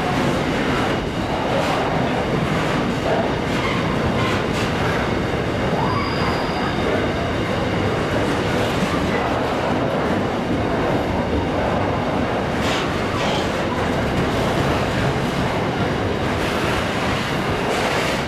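Freight train's container wagons rolling past: a steady heavy rumble of wheels on rail, with clicks and clanks as wheels cross rail joints and a brief high wheel squeal about six seconds in.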